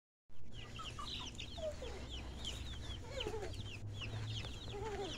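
Chickens calling: many short, high, falling peeps overlapping one another, with a few lower clucks in among them, over a steady low rumble.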